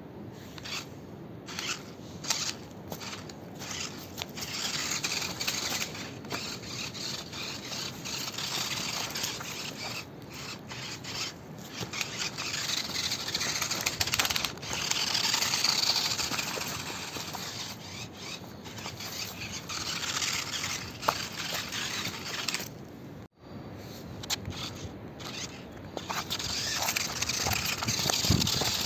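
Radio-controlled monster truck driving over rough ground, its tyres scraping and crunching on dirt and stones. The noise swells and fades unevenly and breaks off sharply once, about two-thirds of the way through.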